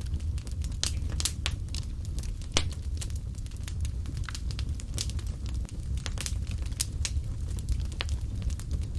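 Fireplace fire crackling, with many sharp irregular pops and snaps over a steady low rumble.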